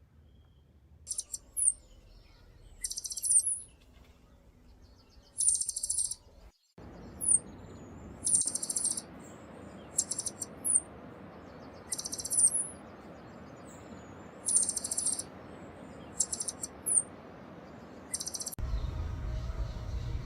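Small songbird giving short, high-pitched buzzy calls, repeated every second or two, over a steady background hiss. The background changes abruptly about six and a half seconds in, and a low rumble comes in near the end.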